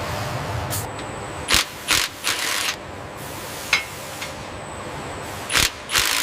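Irregular sharp mechanical clanks and clicks, about half a dozen, over a steady hum of machinery.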